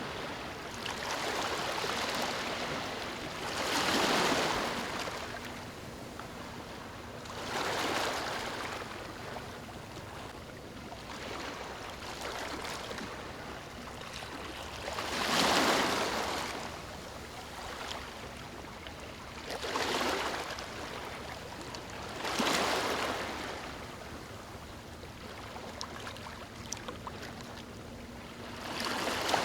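Small waves lapping on a beach: a steady wash of water with a gentle swell of surf every few seconds, each one rising and falling away.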